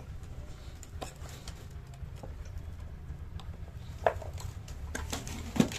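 Occasional light clicks and knocks of metal tools and parts being handled during a scooter engine teardown, over a steady low hum.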